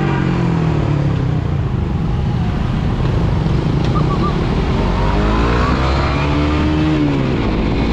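Suzuki GSX-R150 single-cylinder engine running on the move over a steady low rumble. Its pitch eases down early, climbs from about five seconds in, then drops sharply near the end.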